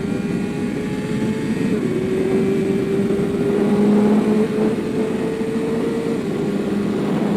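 Suzuki GSX-R's inline-four engine running through an Akrapovic full exhaust while the bike is ridden at steady road speed. The engine note climbs slowly and dips slightly about two seconds in and again near six seconds.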